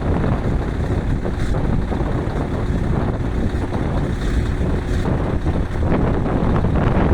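Scania V8 truck's diesel engine running steadily, a dense low rumble.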